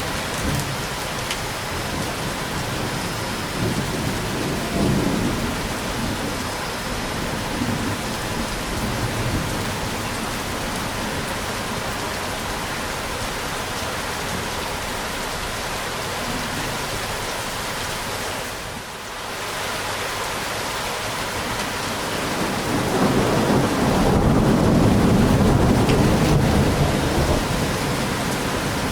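Steady rain with thunder. The rain briefly drops away about two thirds of the way through, then a long low rumble of thunder swells and dies away near the end.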